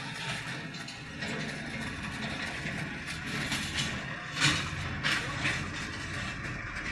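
A vehicle engine running steadily, with a couple of short sharp clacks about four and a half and five seconds in.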